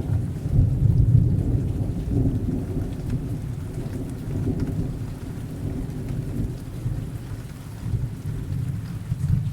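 Thunderstorm: a long, deep roll of thunder that fades slowly over several seconds, with rain falling throughout and a smaller rumble swelling again near the end.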